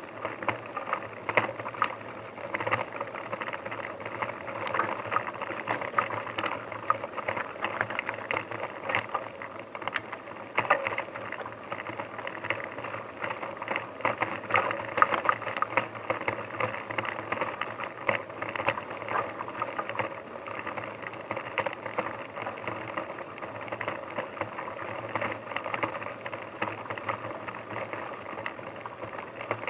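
Bicycle rattling and clattering as it is ridden over rough, bumpy ground: a continuous stream of small knocks and rattles.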